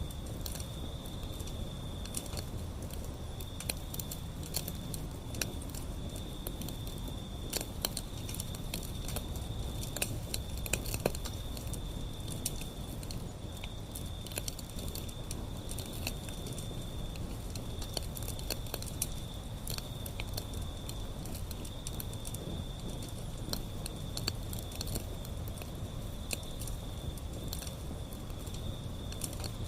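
Wood fire burning: irregular sharp crackles and pops over a low, steady rumble of flame, with a thin high whine that comes and goes.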